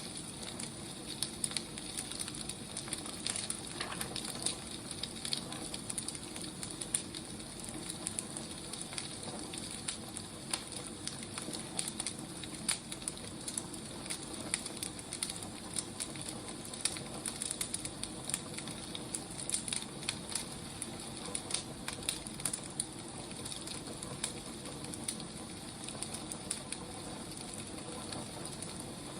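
Firewood burning, with irregular crackles and pops over a steady soft hiss.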